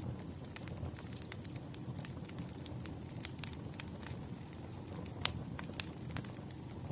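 Wood fire burning with irregular sharp crackles and pops over a low steady rumble of the flames; one louder pop about five seconds in.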